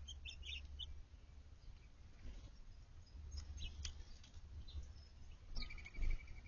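Small songbirds calling in short high chirps, with a quick rapid trill near the end, over a low steady rumble.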